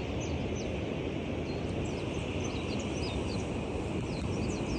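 Steady outdoor rumble, like wind on the microphone, with small birds chirping repeatedly over it.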